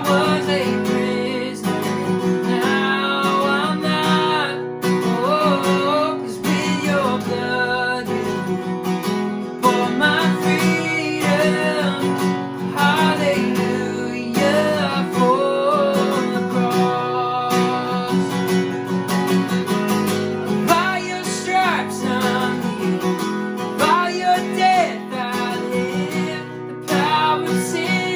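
Worship song on strummed acoustic guitar, with a voice singing the melody over the chords.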